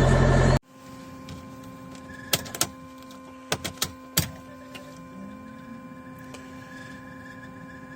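Mercedes-Benz Vito's OM646 four-cylinder diesel idling cold at −28 °C, switched off about half a second in and stopping abruptly. A faint steady whine and several sharp clicks follow.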